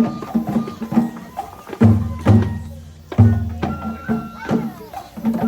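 Traditional Japanese festival music for a lion dance: quick, rhythmic strokes on a smaller drum, two heavy strokes on a big drum about a second and a half apart, and a thin high held note in the second half.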